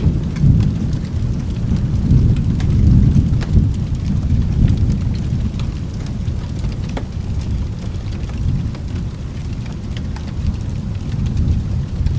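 Low rolling thunder rumble over steady rain, strongest in the first few seconds and then easing off. Sharp crackles from a fireplace pop here and there throughout.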